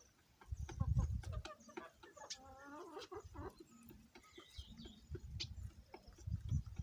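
Local chickens clucking, with one drawn-out, wavering call from about two to three and a half seconds in. Low rumbling noise comes and goes near the start and again near the end.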